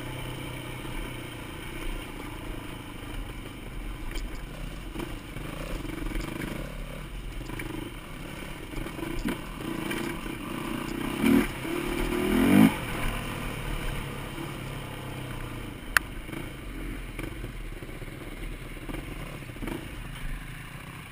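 Yamaha dirt bike's engine running at low to moderate throttle over rough ground, with one sharp rising rev about twelve seconds in. A single sharp click comes a few seconds later.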